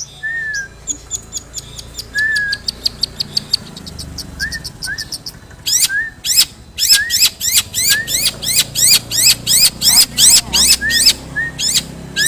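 Long-tailed shrike (cendet) singing. It gives a fast run of high ticking notes, then from about six seconds in a loud series of quick rising sweeps, about three a second. A softer short whistled note repeats underneath at intervals.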